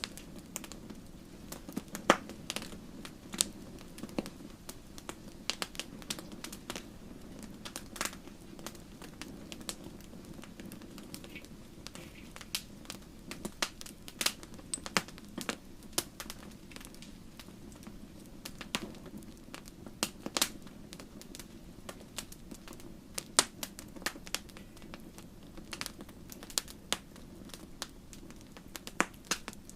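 Wood fire crackling in a fireplace: irregular sharp pops and snaps, a few much louder than the rest, over a soft steady low rumble of the flames.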